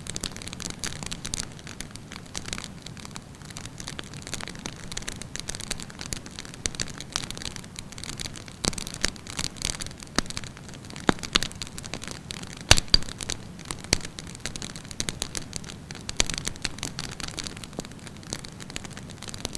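Wood campfire burning steadily, with a continuous low rush of flames and frequent sharp crackles and pops from the burning wood, one loud pop about thirteen seconds in.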